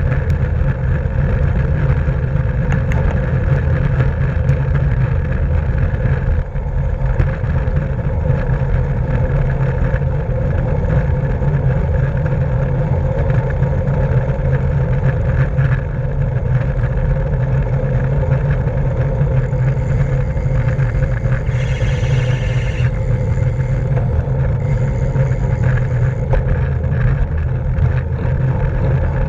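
Steady wind rush and road rumble from a racing bicycle moving at speed, heavy and low in pitch, with a brief hiss about two-thirds of the way through.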